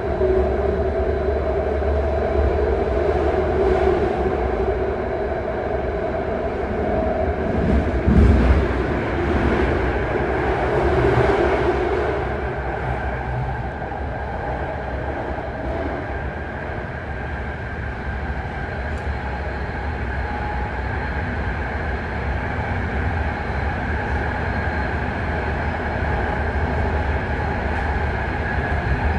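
BART train running at speed through a tunnel, heard from inside the car: a steady rumble of wheels on rail with a humming tone that fades out about twelve seconds in, and a louder jolt about eight seconds in.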